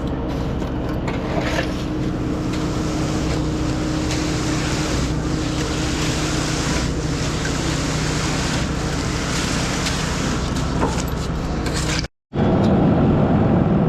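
Concrete line pump's engine running steadily under pumping, with a faint surge about every two seconds as the pump strokes. About twelve seconds in the sound drops out abruptly and comes back as a louder, lower rumble.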